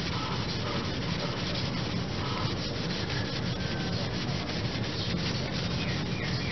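A cloth rubbing steadily and quickly over a motorcycle's chrome exhaust pipe in many rapid scratchy strokes, wiping it dry after rust was scrubbed off with abrasive paste.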